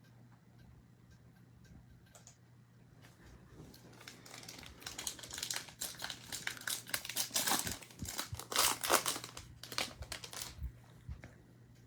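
Plastic trading card pack wrapper crinkling and tearing as a pack is opened, building up about three seconds in and stopping shortly before the end.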